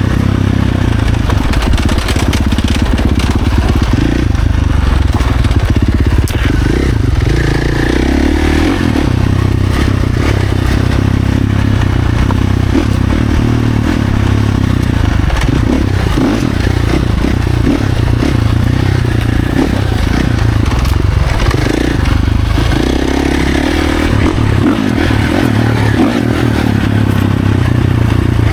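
Husqvarna FC450's 450 cc single-cylinder four-stroke engine running hard off-road, its revs rising and falling as the rider works the throttle and gears, with brief drops in engine speed about 8, 16 and 22 seconds in.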